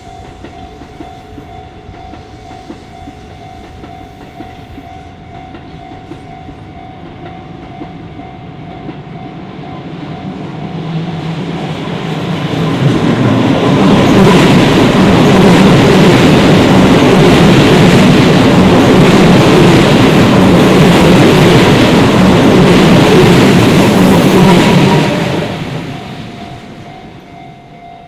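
Level-crossing warning bell ringing steadily while a Shin-Keisei electric train approaches, runs loudly over the crossing for about ten seconds with wheels clattering over the rail joints, then fades away, leaving the bell.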